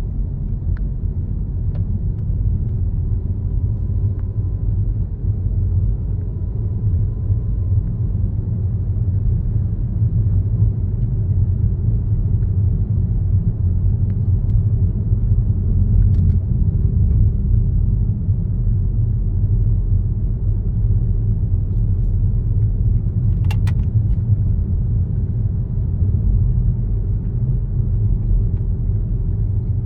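Car driving at a steady speed: a continuous low rumble of road and engine noise. A short sharp click sounds once, late on.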